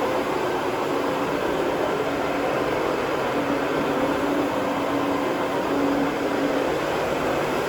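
Carpet cleaning machine running steadily, a constant motor hum and whoosh.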